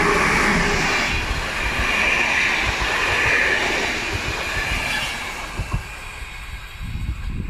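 A passenger train hauled by a Siemens Smartron electric locomotive passing close by, its wheels rolling on the rails as the coaches go past. It is loudest at the start as the locomotive goes by, then fades after about five seconds as the last coach moves away.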